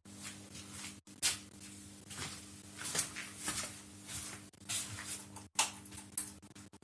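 Quiet, irregular scrapes and rustles over a faint steady low hum.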